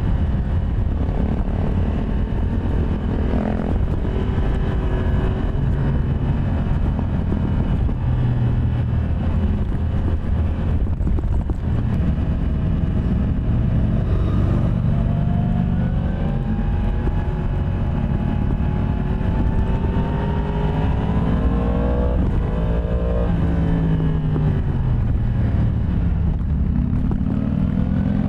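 Yamaha MT-10 SP's crossplane inline-four engine running under way. Its note climbs steadily through the revs from about halfway in, drops back sharply, then rises again near the end.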